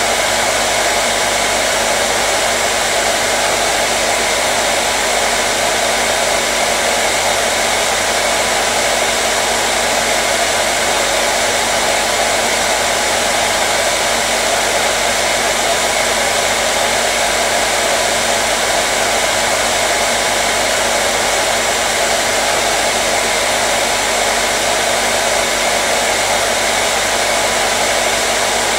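Hair dryer running continuously, a steady whoosh of air with a faint motor hum underneath, unchanging throughout.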